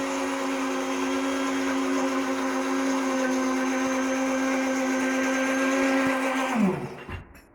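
A small electric motor running steadily with a whirring hum, then switched off about seven seconds in, its pitch falling as it winds down to a stop.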